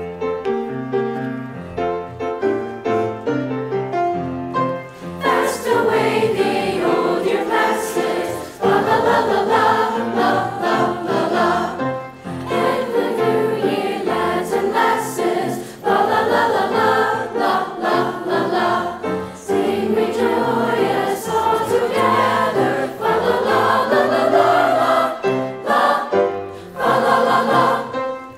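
Chorus singing a Christmas concert piece, softer and sparser at first, then fuller and louder from about five seconds in.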